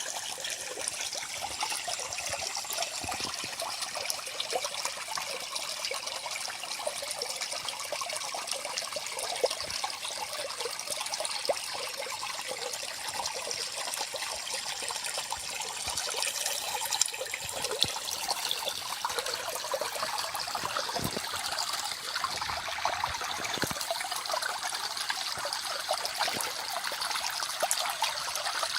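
Small forest stream running steadily, the water trickling and babbling over stones with a continuous bright splashing.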